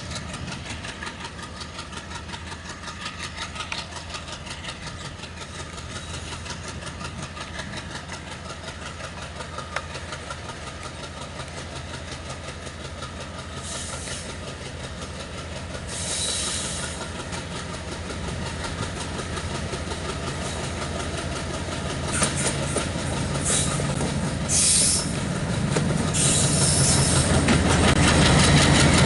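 Diesel-hauled passenger train approaching on curved track: steady clickety-clack of wheels over the rail joints, with several short high-pitched wheel squeals in the second half. The locomotive's engine grows louder near the end as it passes close by.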